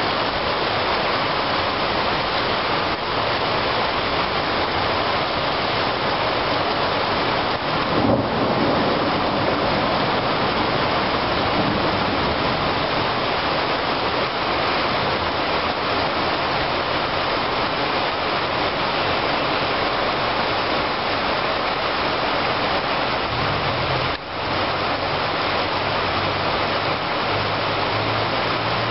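Heavy rain pouring onto a wet street and puddles, a dense, steady hiss. About eight seconds in, a brief louder low rumble rises over it.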